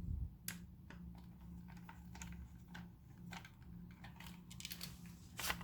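Faint, irregular clicks and taps of plastic parts being handled and fitted together as a DC fan unit and its holder go into a humidifier's plastic housing, over a faint low hum.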